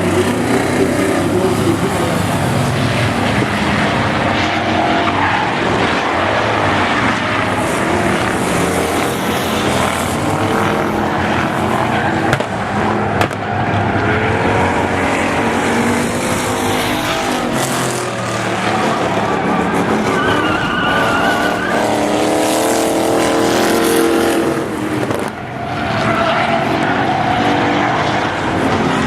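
Several demolition race car engines running hard around a speedway oval, their notes rising and falling as the cars accelerate and back off, over a continuous layer of engine and tyre noise.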